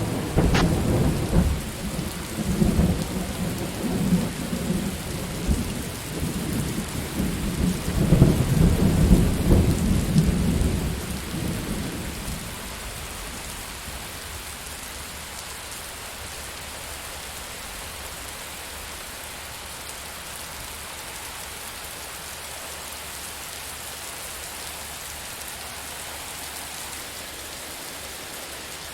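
Steady rain with thunder: a sharp crack just after the start opens a low rolling rumble that swells again about eight seconds in and fades out by around twelve seconds, leaving only the even hiss of rain.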